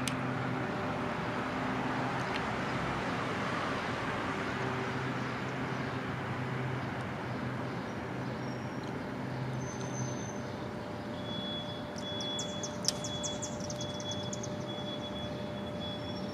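Steady outdoor background noise of distant traffic with a low steady hum underneath. A bird gives a short burst of quick high chirps about twelve seconds in.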